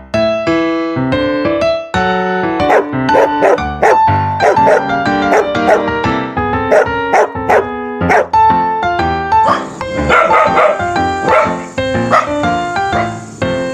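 Keyboard piano music, with a dog barking repeatedly over it from a couple of seconds in.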